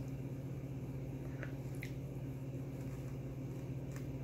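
A person biting into and chewing a chicken sandwich close to the microphone, with a few soft wet mouth clicks, over a steady low hum.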